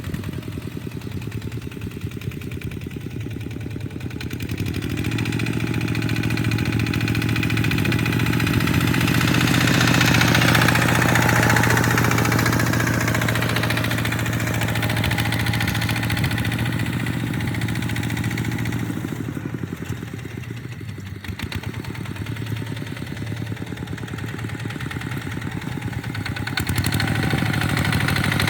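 Tractor engine running steadily with a fast firing beat. It grows louder from about five seconds in, peaks around ten to twelve seconds, and eases back to a lower note near the end.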